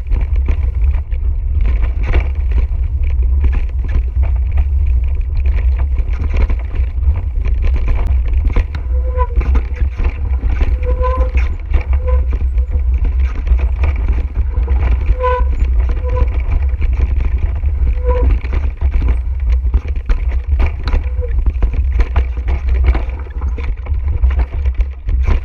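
Mountain bike rattling and clattering over a rough trail, with a steady low rumble from wind and vibration on the camera microphone. Around the middle, a handful of short pitched chirps or beeps cut through.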